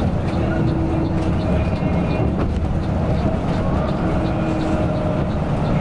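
Steady low rumble of a moving coach bus, engine and road noise together, with a faint regular ticking a little over twice a second.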